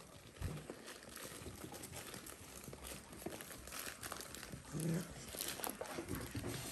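Dalmatian puppies moving about and playing: faint rustling and light scratchy clicks, with a soft thump about half a second in and a short low sound near five seconds.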